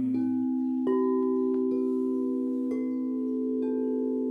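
Singing bowls ringing, with a new bowl struck about five times, roughly once a second. Each tone sustains and overlaps the others over a steady low hum.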